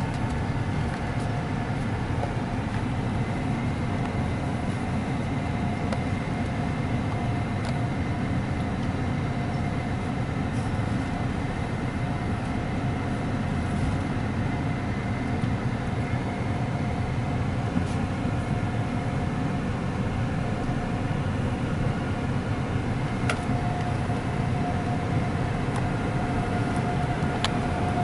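Steady low rumble of a truck idling, heard from inside the cab while it waits at a car wash tunnel entrance. A steady mechanical whine from the wash machinery runs under it and grows stronger near the end.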